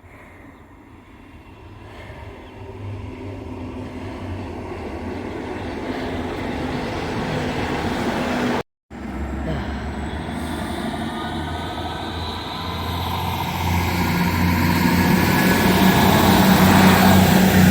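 Diesel passenger train approaching and growing steadily louder, its engine humming low with a rising high-pitched whine building over the second half. The sound cuts out completely for a moment about nine seconds in, then picks up again.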